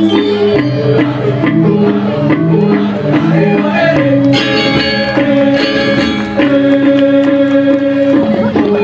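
Balinese gamelan ensemble playing a tabuh kreasi piece: dense, fast strikes on tuned metal percussion over held ringing notes.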